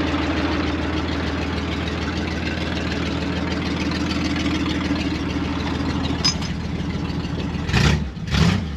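1967 Ford Mustang's 200 cubic-inch (3.3 L) inline-six idling steadily, then revved in two quick blips near the end. The exhaust is a little loud.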